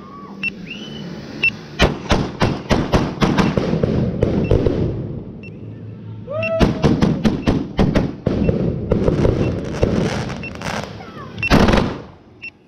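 Firework barrage going off: volleys of rapid bangs and crackles in three runs, with a few brief whistling glides between them.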